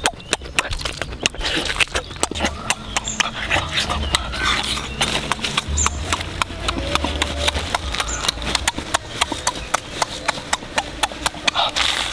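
Close-up eating sounds: a person chewing and smacking their lips on cooked pig leg, a dense run of irregular sharp clicks.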